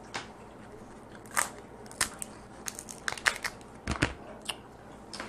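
Dungeness crab shell being cracked and broken apart: a string of sharp, irregular cracks and snaps, about a dozen, the loudest just under a second and a half in and again around two, three and four seconds in.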